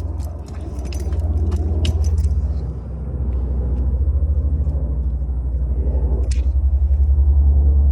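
A steady low rumble, with a few light metallic clicks and scrapes of a key probing a car tyre's tread for lodged stones.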